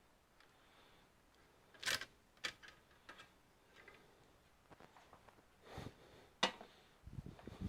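Scattered clicks and light knocks from computer parts and tools being handled during disassembly. The sharpest click comes about two seconds in and another a little past six seconds, with a low shuffling rumble near the end.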